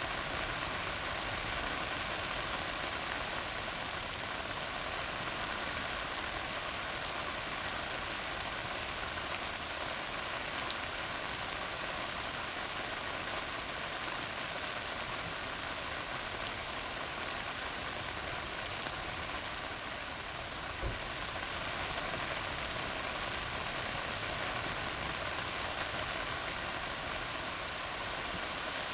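Steady rain falling on a tar road, a constant patter with the odd sharper drop hitting the surface.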